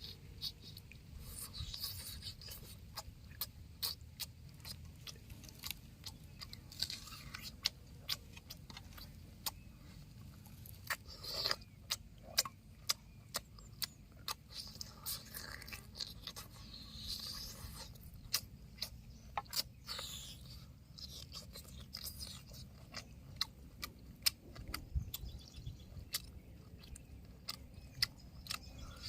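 A person eating cooked chicken, with irregular crisp crunching and chewing clicks scattered throughout.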